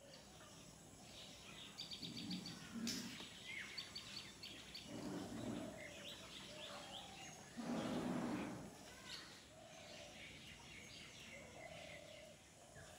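Small birds chirping in quick high series against faint outdoor background noise, with two louder rushing swells about five and eight seconds in.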